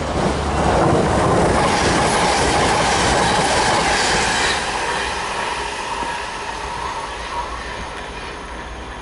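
Freight train rolling past, its wagon wheels clattering over the rails with a thin wheel squeal. It is loudest in the first half and then fades as the train draws away.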